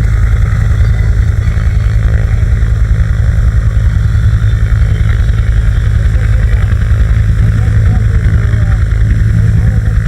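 AH-1F Cobra attack helicopter running: its Lycoming T53 turboshaft and two-blade main rotor make a loud, steady drone with a fast, even low beat of rotor chop.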